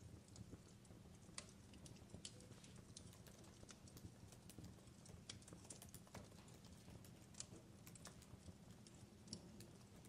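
Fireplace crackling quietly: irregular sharp pops and snaps of burning wood, a few a second, over a low steady rumble.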